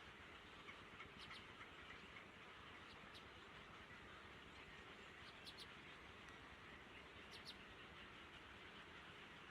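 Faint, short high bird chirps, mostly in quick pairs, a few seconds apart, over a steady outdoor hiss.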